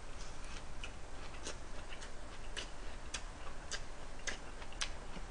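A person chewing a big mouthful of lettuce wrap with grilled pork, raw garlic and onion: faint crisp clicks of the chewing, about two a second.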